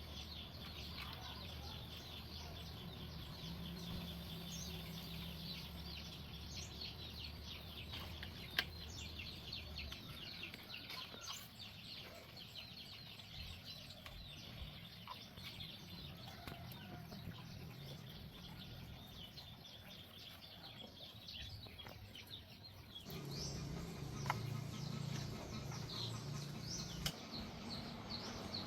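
Birds chirping continually, with a low steady hum that fades about ten seconds in and comes back louder near the end, and a few sharp clicks.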